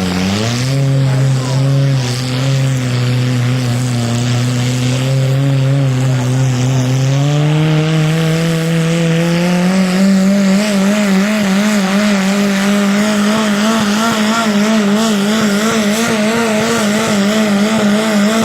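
Four-cylinder engine of a garden pulling tractor running hard under load during a pull. Its pitch holds steady at first, climbs over a few seconds about halfway through, then holds high with a wavering wobble.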